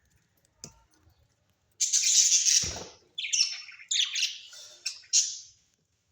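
Pet parrot calling in harsh, scratchy squawks: one longer call about two seconds in, then four short ones in quick succession.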